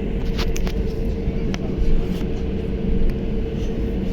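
Steady cabin noise inside an Airbus A320 airliner: a continuous low rumble with a steady tone running through it, and a few faint clicks in the first two seconds.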